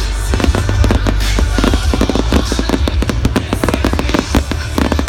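Fireworks going off in a rapid, dense string of cracks and bangs, many per second, over a steady low rumble.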